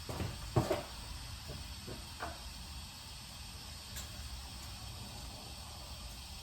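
Motor oil being poured from a jug into the valve-cover filler of a small three-cylinder gas Kubota engine: a couple of light knocks of the jug near the start and another about two seconds in, over a faint steady hiss.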